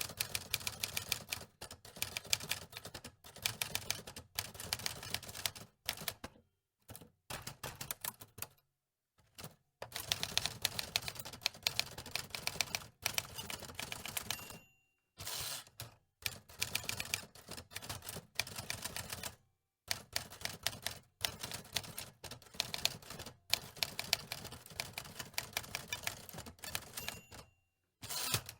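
Typewriter keys clacking in fast runs of typing, broken by short pauses every few seconds.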